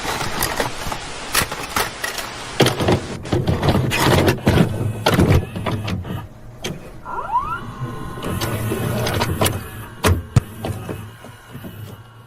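A small motorised mechanism whirring with a low hum, with many clicks and knocks and a short squeal about seven seconds in.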